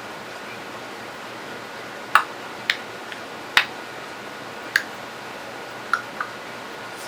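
African grey parrot making a series of sharp clicks, six or seven of them at irregular intervals, the last two close together.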